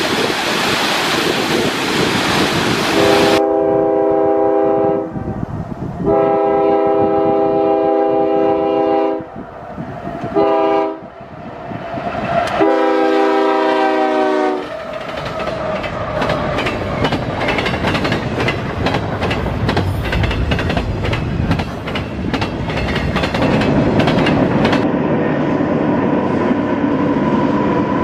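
Rushing waterfall for the first few seconds, then a Canadian Pacific freight locomotive's air horn sounds a chord in the grade-crossing pattern: long, long, short, long. The train then rolls past with wheels clicking over the rail joints and the engines running under it.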